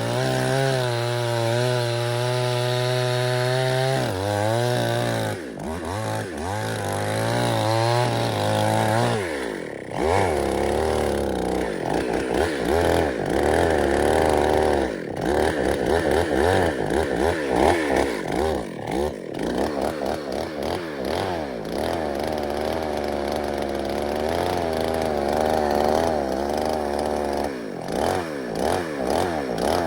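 Two-stroke chainsaw running at high revs. From about ten seconds in its pitch rises and falls over and over as the throttle is worked while it saws wood.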